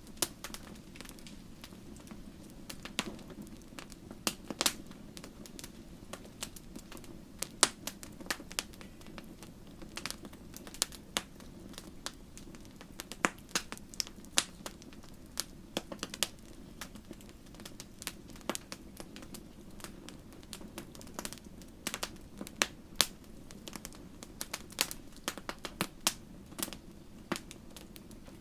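Wood fire crackling: irregular sharp snaps and pops, several a second, over a low steady rush of burning.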